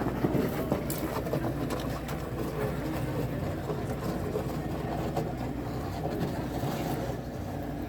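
An engine running steadily with a low hum, with a few faint clicks.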